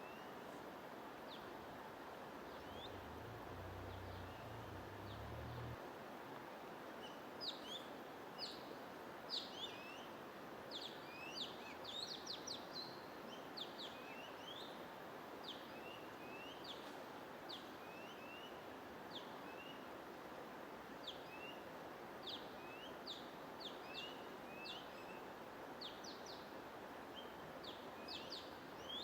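Small birds chirping in quick, short, sweeping high chirps, sparse at first and then frequent, over a steady rushing noise bed. A low hum sounds briefly a few seconds in.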